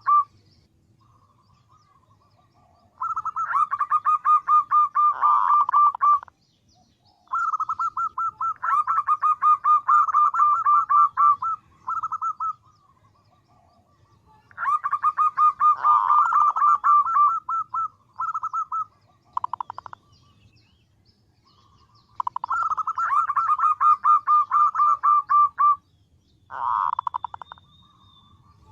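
Female zebra dove (perkutut) calling in rapid trilling bursts of a few seconds each, about five bursts with short pauses between them. This is the female's call to a male, used as a lure to draw male zebra doves in for trapping.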